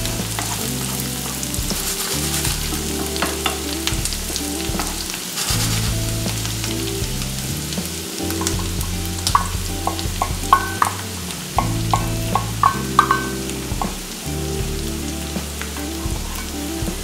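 Pork belly and kimchi frying in oil in a nonstick skillet, sizzling steadily while a wooden spoon stirs and scrapes through them. Beaten egg is poured into the hot pan about halfway through, followed by a run of light clinks. Soft background music plays underneath.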